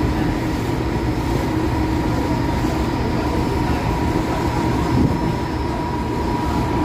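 Steady running noise of a public transport vehicle: an even low rumble with a steady whine held on one pitch.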